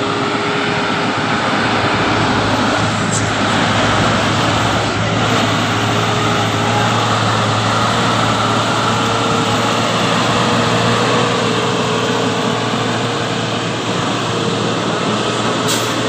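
Truck engine running steadily with road noise, a droning tone that rises slightly midway and settles back.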